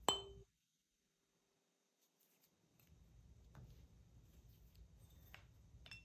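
A weighted solfeggio tuning fork struck once: a sharp metallic clink with bright ringing overtones that fade within half a second, leaving a faint tone for about two seconds. A few light clicks follow later.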